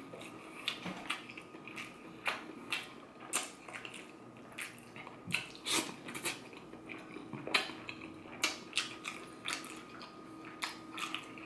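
Close-up eating sounds: a person chewing stewed chicken with lips smacking, short wet clicks coming irregularly a few times a second.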